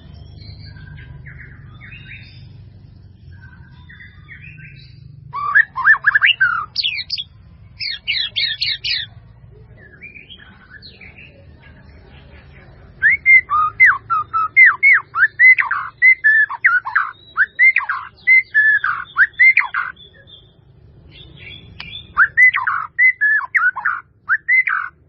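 A bird calling in loud bouts of rapid, repeated down-slurred notes, with softer scattered chirps between the bouts.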